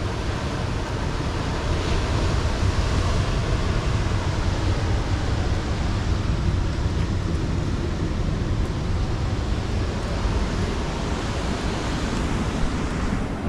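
Ocean surf washing steadily onto a beach, with wind rushing over the microphone.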